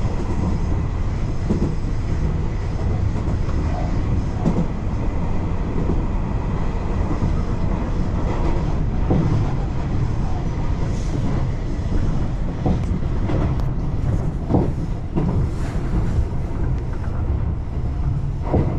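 Tobu Urban Park Line electric commuter train running along the track, heard from inside the front car: a steady low rumble with irregular sharp clicks from the wheels over the rails.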